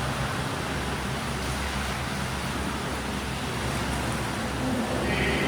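Swimming pool ambience: a steady rumble and hiss of churning water with a low hum underneath.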